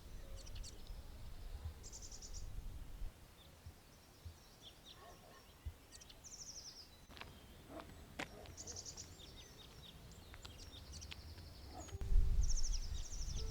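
Small songbirds singing short, fast, high trills that recur every few seconds, over a low outdoor rumble that swells near the end, with a few sharp clicks in between.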